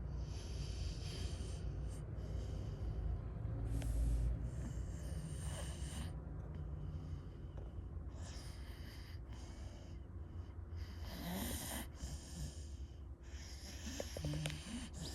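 A sleeping dog snoring: a run of noisy breaths in and out over a low rumble, about one every second or two.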